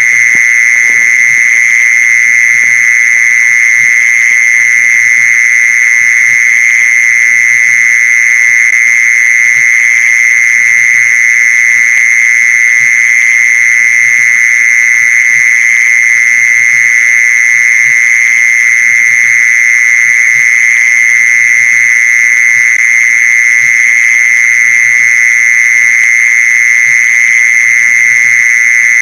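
Mole cricket call: one unbroken, loud, steady trill near 2 kHz, played as a lure to draw mole crickets.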